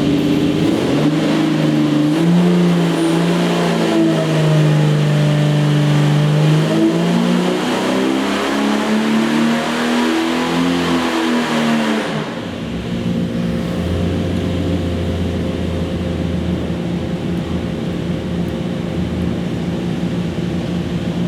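Golen Engine 4.6-litre Jeep inline-six stroker running on a dyno. Engine speed climbs and eases through the first twelve seconds, then drops suddenly to a steady lower speed.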